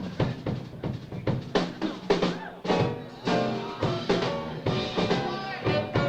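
Live jazz quartet playing at full band, with the drum kit's snare, rimshot and bass drum hits prominent and held melodic notes over them.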